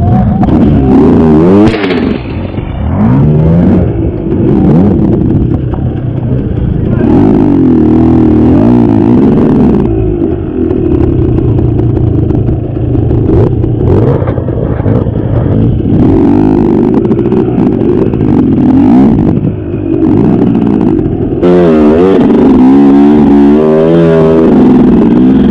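KTM 250 EXC two-stroke enduro motorcycle engine revving hard, its pitch rising and falling over and over under throttle, with quick throttle blips in the last few seconds, and a few knocks from the bike over rough ground.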